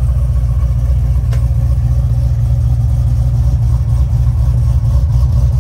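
Box Chevy's V8 engine idling with a steady low rumble.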